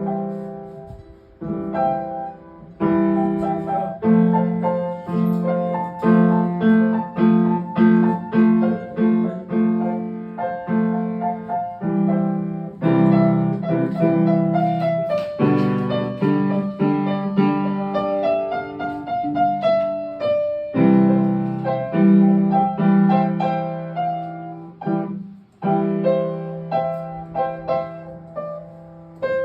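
Piano being played: a steady run of struck chords and melody notes, with a few short breaks in the phrasing.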